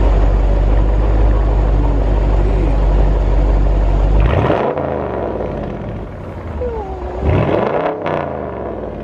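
Car exhaust with the mid muffler deleted, giving a deep, loud, steady drone for about four seconds, then two short revs, one about halfway through and one near the end.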